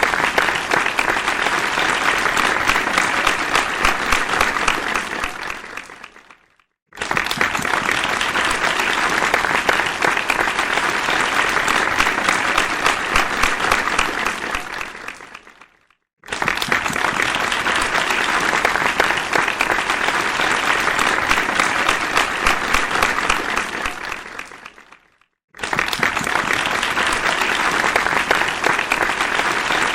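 Applause from a large audience, dense clapping of many hands. It repeats as a loop: each round fades out, breaks off into a moment of silence, then starts again suddenly at full strength, three times.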